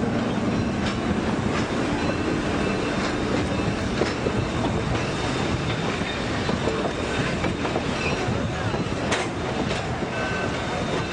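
Train rolling along the rails: a steady rumble with occasional clicks from the wheels and a faint, high wheel squeal that comes and goes.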